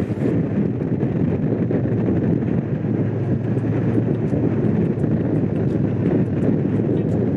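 Honda CX500's liquid-cooled V-twin engine running at a steady pace while riding, with wind rushing over the microphone.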